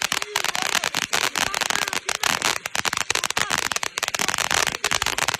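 Fireworks going off in a rapid, unbroken string of sharp cracks and pops, many every second.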